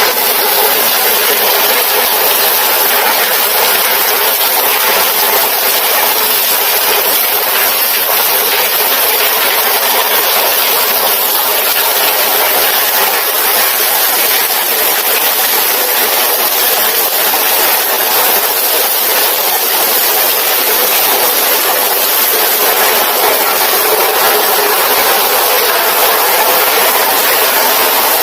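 Heavy rain falling steadily and loudly.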